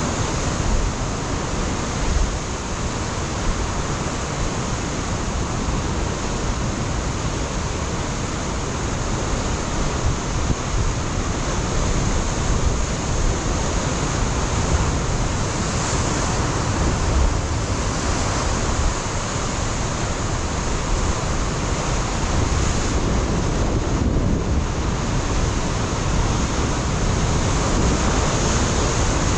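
Ocean surf washing against a rocky shore, a steady rush of water, with wind buffeting the microphone as a low rumble underneath.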